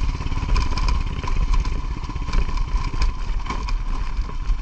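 Motorcycle engine running at low speed on a rough dirt track, with scattered clicks and rattles over the bumps.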